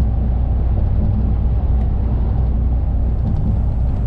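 A lorry driving along: the steady low drone of its engine and road noise, unchanging throughout.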